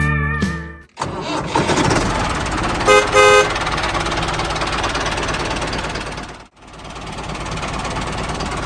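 A motor running steadily, with two short horn toots about two seconds after it starts; it breaks off briefly and resumes near the end.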